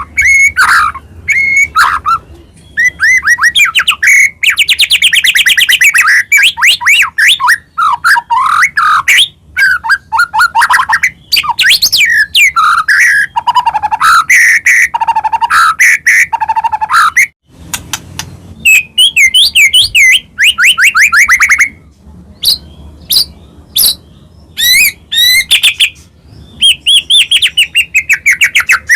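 A white-rumped shama (murai batu), Medan type, singing loud and non-stop. Its long, varied song of clear whistles, fast rattling trills and sliding notes is packed with borrowed phrases ('full isian'). It breaks off briefly about 17 seconds in, then starts again.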